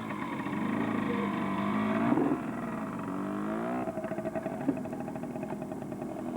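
Kawasaki 80 dirt bike's small engine revving up and down, then climbing steadily in pitch for about a second and a half before settling into steadier running.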